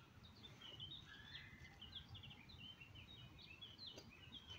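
Faint songbird song: a rapid string of short high chirps and trills, with a lower drawn-out whistle about a second in, over a low background rumble.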